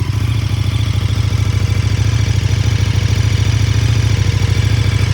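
KTM 1290 Super Duke RR's V-twin engine idling steadily with an even, low pulse, running through its stock Akrapovič slip-on exhaust.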